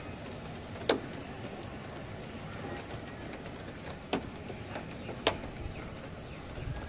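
Steady outdoor storm ambience of wind and rain, broken by three sharp taps: one about a second in, then two more about four and five seconds in.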